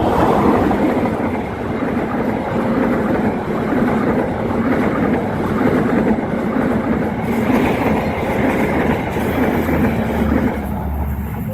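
A train passing close by at speed over a level crossing: a steady rumble and clatter of wheels on rails that fades out near the end.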